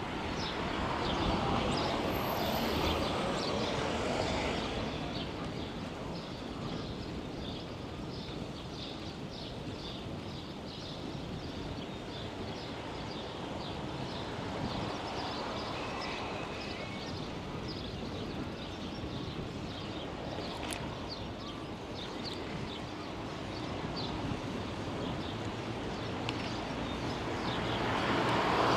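Outdoor ambience heard from a bicycle: a steady wash of wind and road noise, with vehicles swelling past once early and once near the end. Short high chirps of small birds are scattered throughout.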